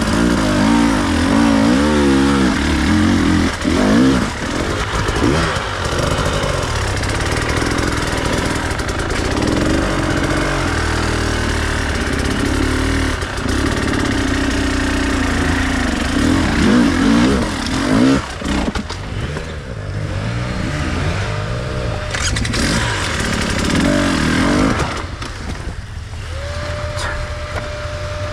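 Enduro dirt bike engine revving up and down in constant throttle changes as it is ridden off-road, settling lower for the last couple of seconds.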